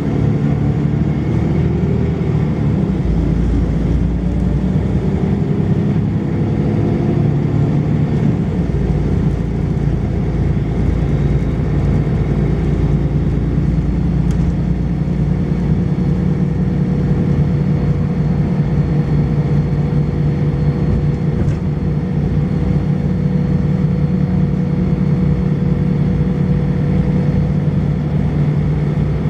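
Volvo B10BLE bus engine and ZF automatic gearbox heard from on board. The pitch rises twice over the first eight or so seconds as the bus pulls up through the gears, then it settles into a steady drone.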